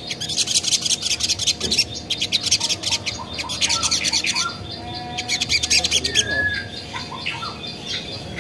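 Ruby-cheeked sunbird (sogon) singing a rapid, high chattering run of notes, many to the second. The run thins out about four and a half seconds in and stops about six seconds in, leaving only a few faint notes.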